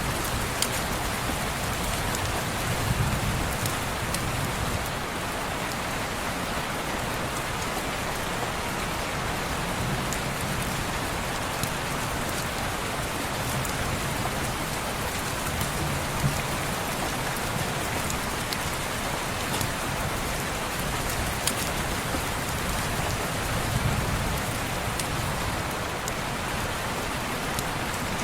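Steady rain on a window glass, a dense even hiss with scattered sharp ticks. A soft low rumble swells and fades four times.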